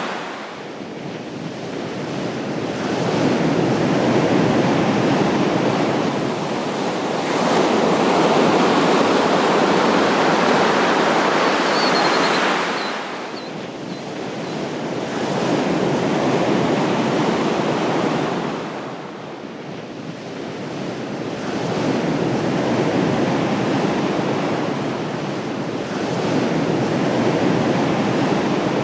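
Ocean waves breaking and washing on a shore, swelling and falling away in slow surges every six seconds or so.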